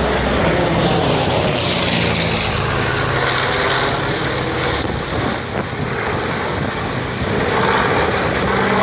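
Propeller aircraft flying, a steady engine drone with rushing noise over it.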